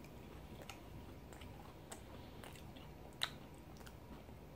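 Faint chewing, with a few soft mouth clicks and one sharper click a little after three seconds in.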